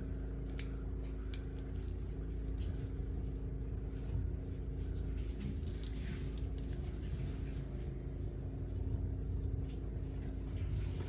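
A steady low hum with several constant tones, with a few sharp clicks scattered through it.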